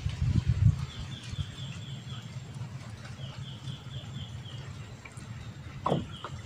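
A bird calling in two short runs of quick, high repeated notes, about five a second, over a low rumble. One sharp knock near the end.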